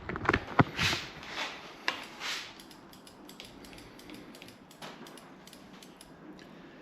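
Brake lever on a 2010 Triumph Thunderbird being pulled and released a few times, with light clicks and rubbing and no creak: the freshly rebuilt master cylinder no longer creaks. The strokes are louder in the first couple of seconds, then fade to soft ticks.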